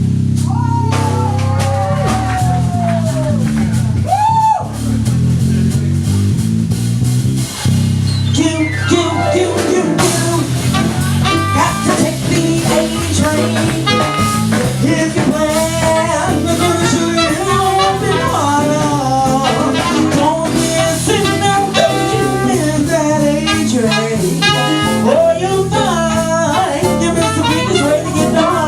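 Live jazz band playing with drums, bass and guitar. Sliding melody lines in the first few seconds give way to a busier, fast-moving melody from about eight seconds in.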